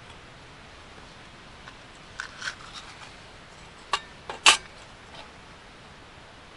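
A few short, sharp clicks and clacks of small hard objects being handled, the loudest pair about four and a half seconds in, over a faint steady hiss.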